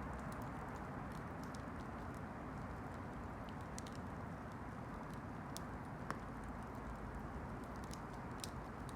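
Campfire burning: a steady low rush with irregular sharp crackles and pops, one slightly louder pop about six seconds in.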